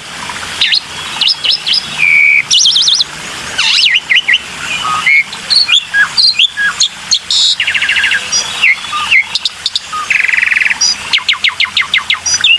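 Black-winged myna (jalak putih) singing a loud, varied song of short whistles, chirps and harsh buzzy rattles.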